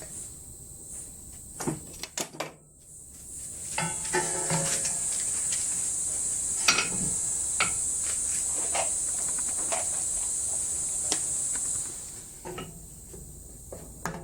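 Scattered knocks and clinks of steel sheet-metal pieces being handled and set in a bench vise, a few of them ringing briefly. A steady high-pitched hiss runs from a few seconds in until near the end.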